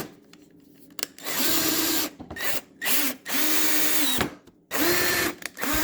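Cordless drill driving screws into a table fitting in about five short trigger pulls, the motor pitch rising as each pull starts and dropping as it stops.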